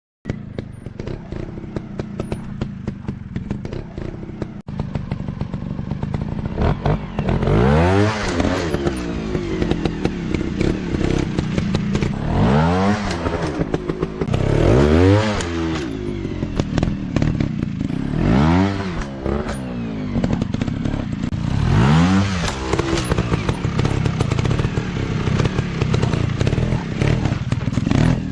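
Dirt bike engine running and revving, its pitch sweeping up and dropping back about six times, with some clatter and thumps.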